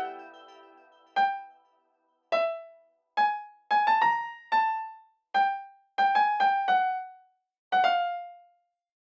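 Piano playing single high notes one at a time, about a dozen at uneven intervals with a quick run of them in the middle, each struck and dying away quickly, like scattered raindrops. It follows a fading chord.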